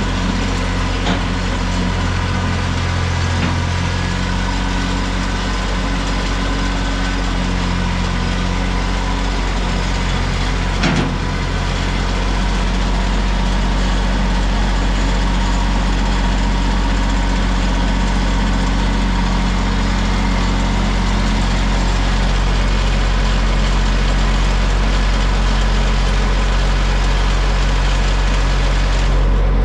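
Tractor engine running steadily while positioning a portable sawmill, with a single knock about eleven seconds in and the engine growing slightly louder in the second half.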